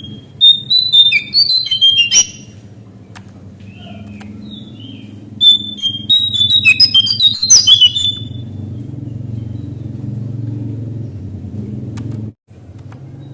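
Lesser shortwing (cingcoang coklat) singing two quick, tumbling phrases of high whistled notes, the second about three seconds after the first, over a steady low hum.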